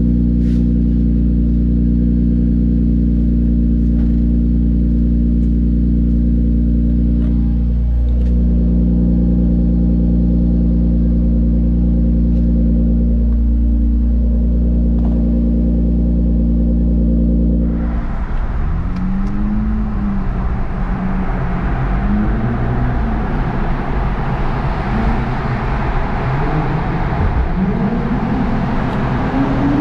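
Infiniti Q50 Red Sport 400's 3.0-litre twin-turbo V6, fitted with a Motordyne exhaust and AMS lower downpipes, idling steadily. About two-thirds of the way in it is revved repeatedly in short blips, the pitch rising and falling with each one.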